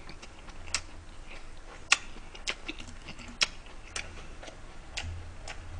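Close-miked chewing of a mouthful of food with the mouth closed: soft, irregular wet clicks and smacks, roughly one every half second to a second.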